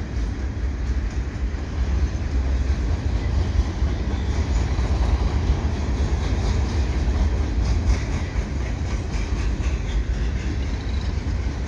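A freight train's cars rolling past: a steady rumble of steel wheels on rail, with scattered light clicks.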